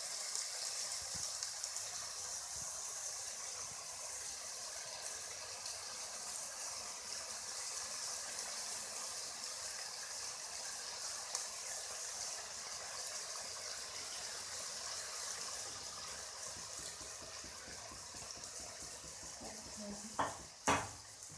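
Chowmein noodles, chicken and vegetables sizzling in a hot pan with a steady hiss as they are turned over. Two sharp knocks near the end.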